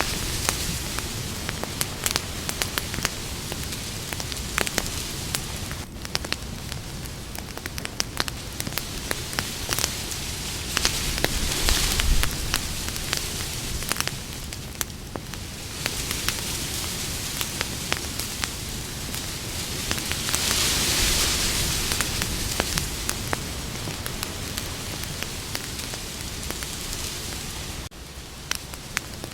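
Campfire burning: a steady hiss with frequent sharp crackles and pops from the burning wood, swelling louder a couple of times.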